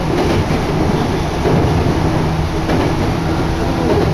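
Steady running noise of a Chichibu Railway electric train in motion, heard from inside the car: a loud, even rumble of wheels on rails and running gear, with a faint hum on top.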